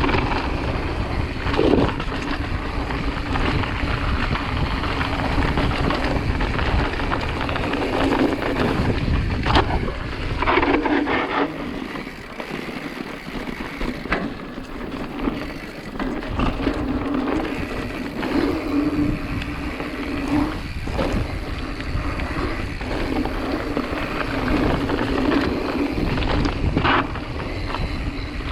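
Wind rushing hard over the microphone, with a few sharp knocks and rattles.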